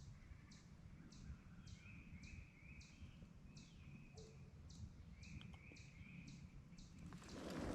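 Small birds calling in quiet woods: a steady series of short high notes about twice a second, with groups of brief lower chirps. A short rustle near the end.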